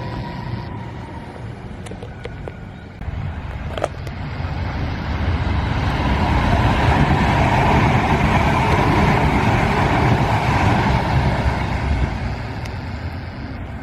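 A vehicle passing by, its rumbling noise swelling to a peak about halfway through and fading toward the end, with a few sharp clicks early in the pass.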